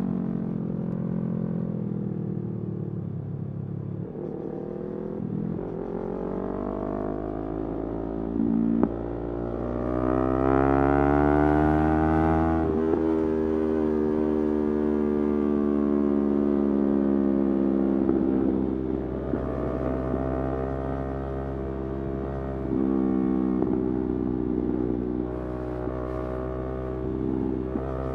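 Motorcycle engine running with no speech. Its pitch sinks at first, then climbs steadily as it revs up about ten seconds in, drops suddenly, and holds with smaller rises and falls.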